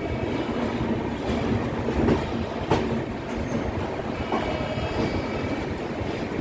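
Passenger train coaches of the 12561 Swatantrata Senani Express rolling along the track, a steady rumble with the wheels clattering over rail joints and a few sharp clicks.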